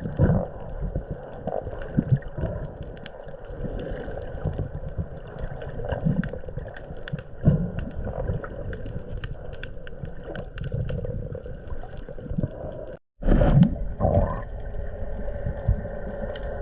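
Underwater sound recorded through a camera housing: a muffled low rumble and bubbling with scattered clicks. It cuts out abruptly about 13 seconds in, then resumes with a louder burst and a steadier hum.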